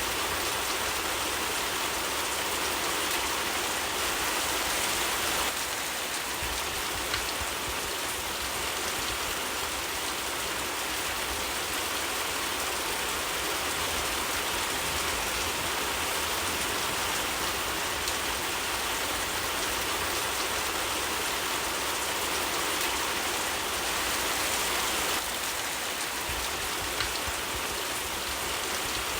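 Steady rain falling, an even dense hiss with a couple of faint ticks.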